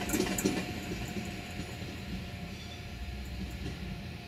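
An electric multiple unit passenger train pulling away and fading. A few sharp wheel clicks come in the first half second, then a steady rumble with a faint whine.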